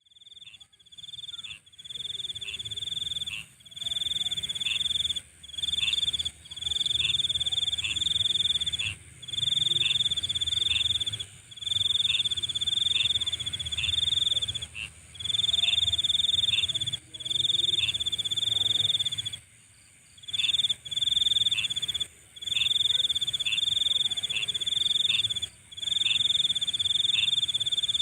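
Night insects calling: a loud, high-pitched trill sung in phrases of a second or two, each broken off by a short gap, over a steady higher shrill of more insects.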